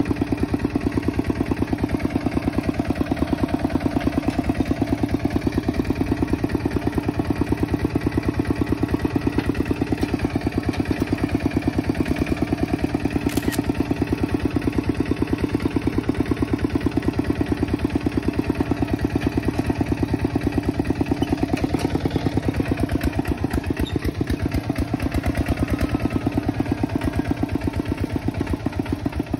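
Kubota tractor's diesel engine running steadily, with a rapid, even beat of firing pulses.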